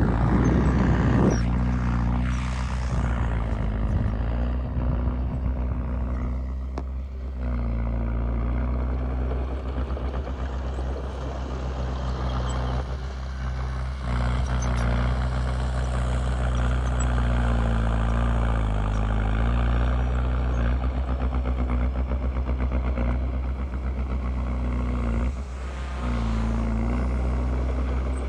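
Heavy diesel machinery engine running steadily, with a rougher, louder stretch in the first second or so and a brief dip and recovery in engine speed about two-thirds of the way through.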